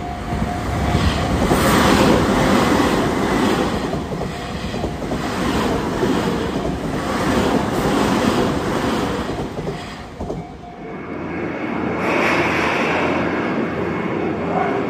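Tobu electric commuter train passing over a level crossing, its wheels clattering over the rail joints in a steady rhythm, with a level-crossing warning bell ringing behind it. The rumble eases about ten seconds in, then picks up again.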